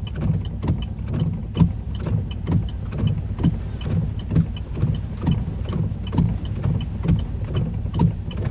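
Steady low rumble inside a stopped vehicle, with a regular knock repeating about twice a second.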